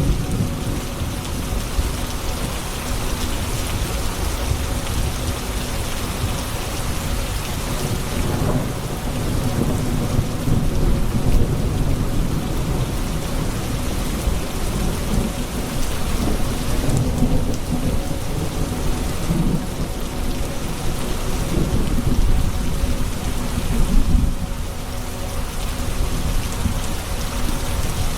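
Steady rain with rolling thunder rumbling low underneath, the rumble swelling a couple of times.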